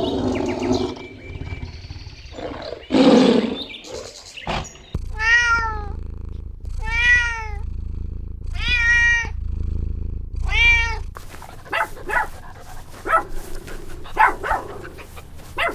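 An animal calling: four high, pitched cries that rise and fall, evenly spaced about two seconds apart, with scattered shorter calls and clicks around them.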